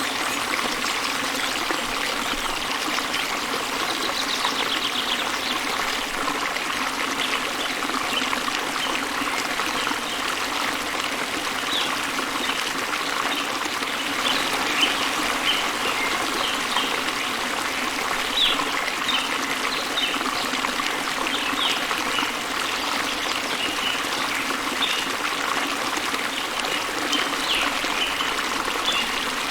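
Small waterfall and stream running steadily, with a continuous rush and trickle of water. Short, high bird chirps come and go over it, more often in the second half.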